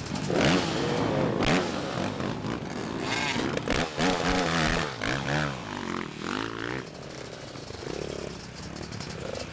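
Motocross bikes running on a track, their engines revving with the pitch rising and falling again and again.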